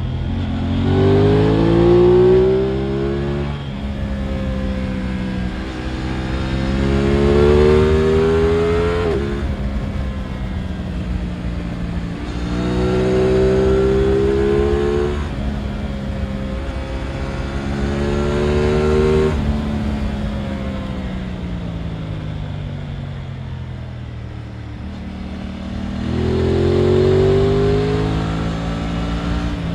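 Aprilia RS 660's parallel-twin engine pulling hard about five times, its note climbing with each pull and dropping back between them as the rider shifts and eases off.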